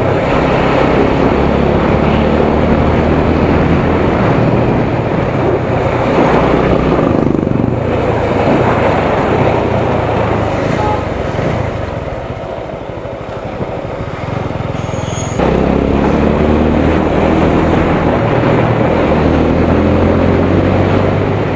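Motorcycle engine running on the road, with wind and road noise. About twelve seconds in the engine drops back and grows quieter for a few seconds. It then comes back loud, suddenly.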